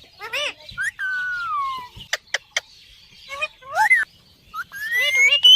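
Parrot whistling and calling. First a short call, then a long falling whistle, a few sharp clicks, and rising whistles toward the end.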